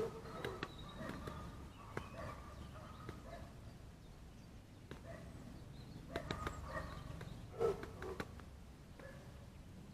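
Short, low bird calls repeated irregularly, mixed with scattered sharp taps; the loudest call comes about three-quarters of the way through.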